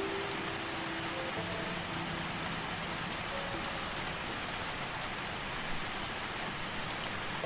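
Steady rain falling, with scattered sharp raindrop ticks and a few faint held tones in the first half.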